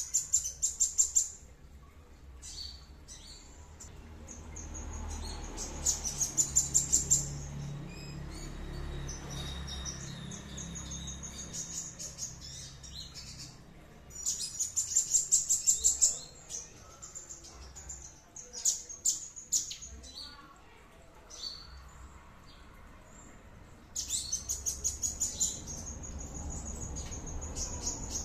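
A songbird singing in repeated bouts of rapid, high chattering trills, each lasting a second or two, with short gaps between them.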